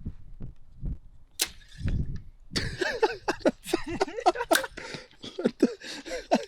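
Wind buffeting the microphone, then a single sharp bowstring snap as an arrow is shot about a second and a half in. After that comes a busy stretch of quick clicks and short wavering tones.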